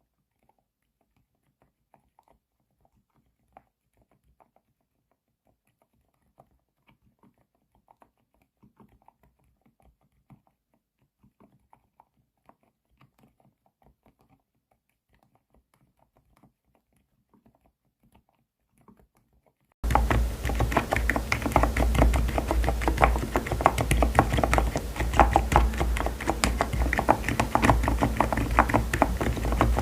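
Typing on an Aula F108 keyboard with silent 'Bada' switches: faint, scattered keystrokes for about twenty seconds, then much louder, dense, fast typing from about twenty seconds in, over a low steady hum.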